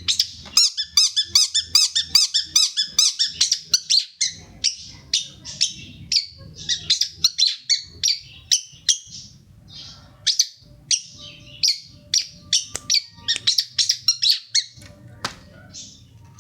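Long-tailed shrike singing a varied, many-voiced song: a fast string of sharp high chirps and trills, densest in the first four seconds, then continuing in short bursts.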